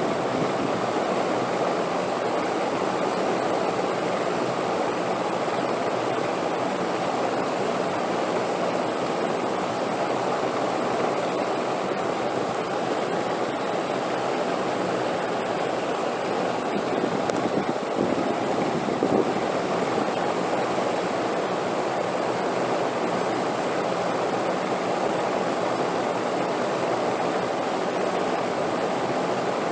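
Steady rushing wind, a continuous even noise with a slight swell about eighteen seconds in.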